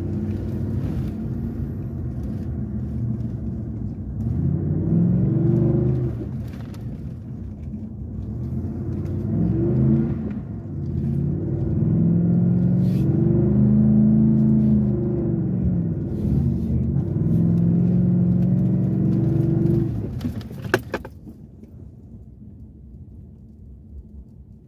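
V8 engine revving hard under load on a climb, its pitch rising and falling in several long surges. About 21 seconds in, after a sharp click, the engine drops back and the sound falls much quieter.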